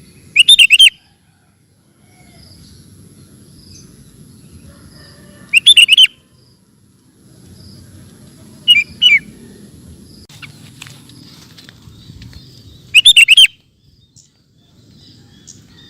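Sooty-headed bulbul (kutilang) singing short, loud, bubbling phrases four times, a few seconds apart; the third is a quick two-note call.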